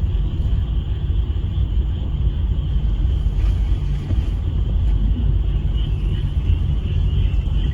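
Steady low rumble with a faint, continuous high-pitched chorus of frogs calling.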